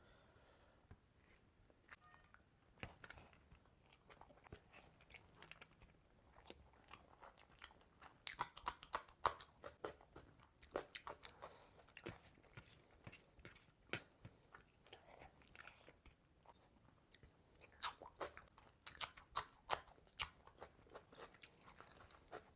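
Close-up crunching and chewing of a whole fish: sharp, crisp crunches as mouthfuls are bitten and chewed, coming thickest in two busier spells, about eight seconds in and again near the end.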